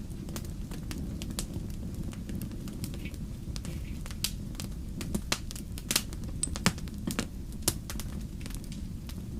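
Wood campfire crackling: irregular sharp snaps and pops of burning logs over a steady low rumble of the flames, with a few louder pops in the second half.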